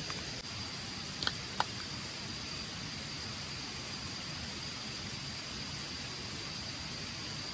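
Steady outdoor hiss with a constant high tone over it, broken by two short clicks about a second and a half in.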